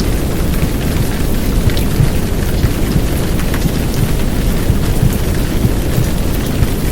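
Heavy downpour rain: a steady, dense hiss with a deep low rumble and scattered drop ticks. It is layered with a womb-sound track of muffled whooshing noise.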